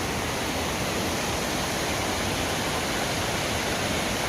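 Steady rushing of white water from the waterfalls and cascades of a steep mountain creek: an even, unbroken noise.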